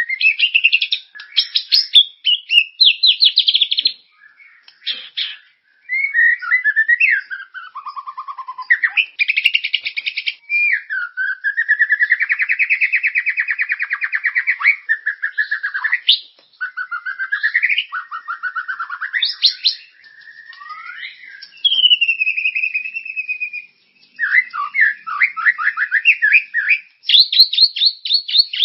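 Songbird tutor song for training white-rumped shamas: a busy medley of varied bird phrases, fast chattering trills, whistled notes gliding up and down, and rippling runs, one after another with only brief pauses.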